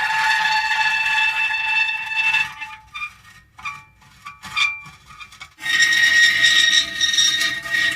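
Metal creaking: long, squealing creaks, broken into short squeaks in the middle, then a long higher creak from a little before the end.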